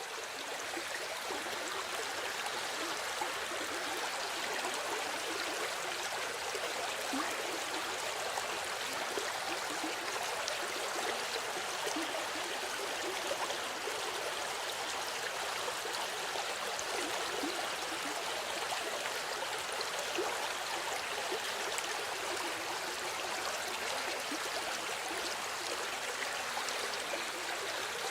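Steady flowing water, fading in right at the start.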